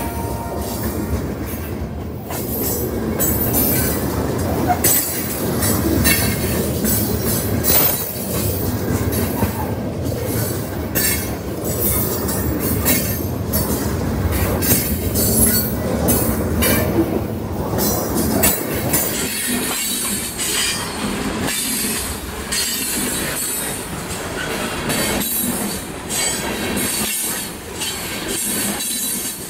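Freight cars rolling past at close range, their steel wheels clicking over rail joints again and again, with high-pitched squealing from the wheels.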